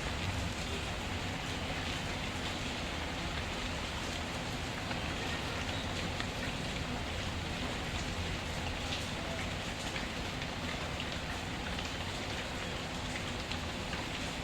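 Steady rain falling, with scattered small crackles of a wood fire mixed in.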